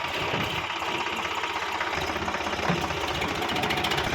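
Tractor's diesel engine running steadily with a fast, even clatter, on a vehicle that has sunk in and is stuck.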